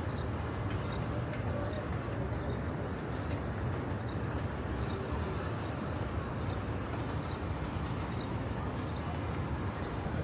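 Busy outdoor street ambience: a steady low rumble of traffic with indistinct voices, and scattered short high chirps.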